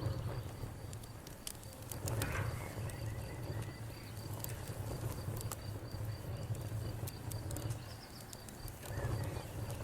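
Campfire crackling, with scattered sharp pops over a low steady rumble of the burning fire. A cricket-like insect chirps in a rapid, even pulse throughout.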